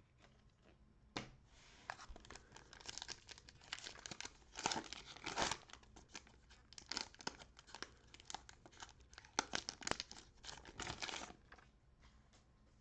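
Cellophane wrapper of a Prizm basketball card cello pack being torn open and crinkled, in irregular crackling bursts that start about a second in and stop near the end.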